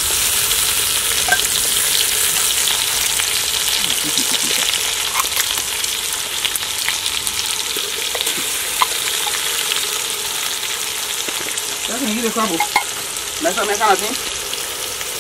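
Canned mushrooms frying in hot oil in an aluminium pot over a wood fire: a steady sizzle that swells right at the start and holds, with scattered light pops.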